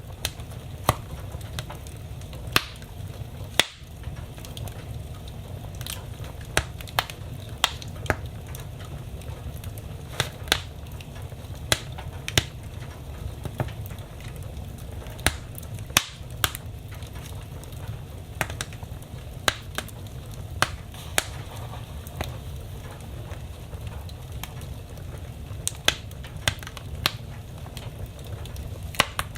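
Wood fire burning in a fireplace: irregular sharp crackles and pops, a few every couple of seconds, over a steady low rumble.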